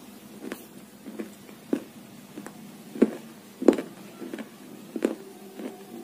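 Close-miked chewing of a crunchy snack with the mouth closed: a string of irregular crunches about every half second, the loudest two about three and three and a half seconds in.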